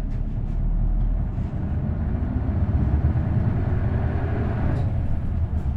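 Isuzu Erga bus's V8 diesel engine running under way, a steady low drone with a brief dip in level about one and a half seconds in, and a few light clicks.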